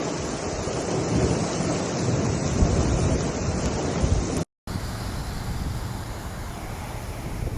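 Steady rushing noise of wind buffeting the microphone mixed with the rush of flowing floodwater. About four and a half seconds in it drops out for a moment and comes back as a quieter, similar rushing.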